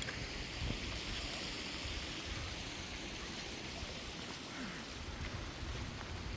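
Steady rush of running water from a stream, with low wind buffeting on the microphone.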